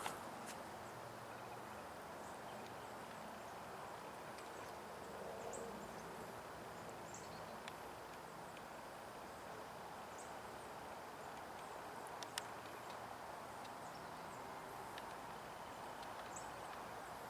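Quiet outdoor ambience: a steady low hiss of distant highway traffic, with scattered faint high bird chirps.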